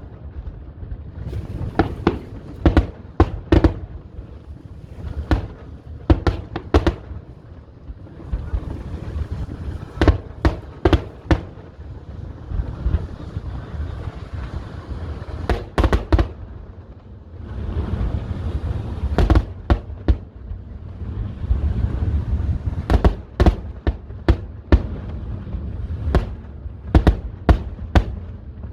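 Fireworks display: shells bursting in quick irregular clusters of sharp bangs, with a low rumbling background between volleys.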